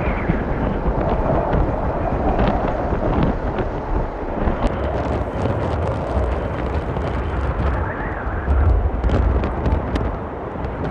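Gale-force mountain-top wind, about 30–35 mph with stronger gusts, rumbling and buffeting the microphone in uneven surges. From about halfway in, quick sharp crackles and snaps come through the rush.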